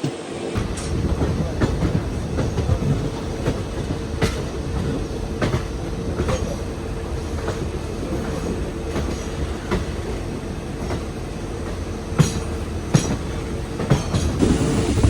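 Passenger train running on the track, its wheels clicking over rail joints every second or so over a steady rumble and hum, growing louder near the end.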